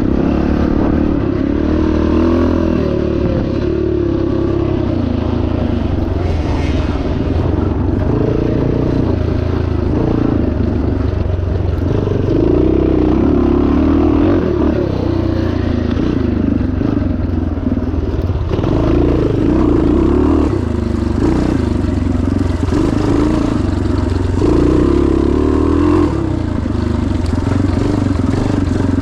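1977 Yamaha TT500's single-cylinder four-stroke engine running under load, its revs rising and falling again and again as the throttle is opened and closed.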